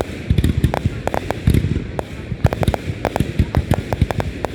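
Fireworks going off in quick, irregular succession: many sharp bangs and crackles a second over deeper booms.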